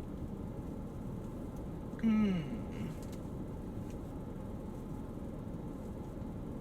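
Steady low rumble inside a parked car. About two seconds in, a person gives one short hum that falls in pitch.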